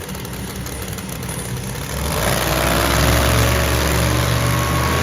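Monster truck engine running steadily, getting louder about two seconds in and holding at a low, even pitch.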